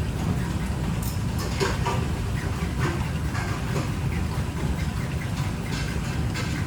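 Steady low rumble with scattered light clicks and knocks, as of kitchen work over a running appliance.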